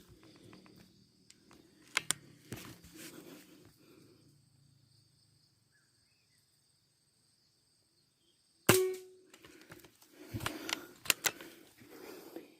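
A single sharp gunshot-like crack from a hunting gun about nine seconds in, with a brief ringing tone after it. Scattered clicks and rustling come before and after it.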